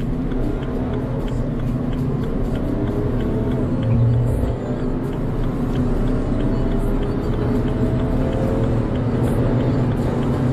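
Car engine pulling hard under acceleration, its pitch climbing slowly and steadily, with a brief drop in level about four and a half seconds in.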